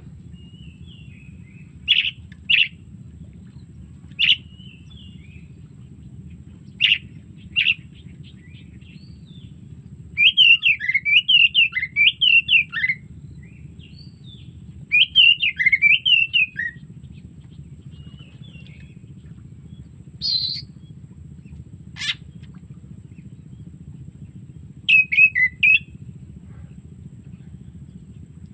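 Oriental magpie-robin (kacer) singing: scattered sharp whistled calls, with two longer runs of rapid warbling notes, over a steady low hum.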